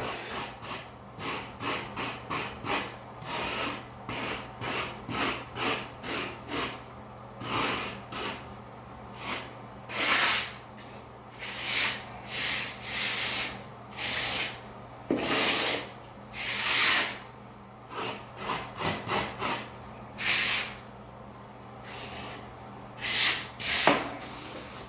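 A float scraping and rubbing across dry-pack sand-and-cement shower pan mortar in repeated strokes, about one to two a second, some longer sweeps among them, as the mud is shaped and sloped around the drain.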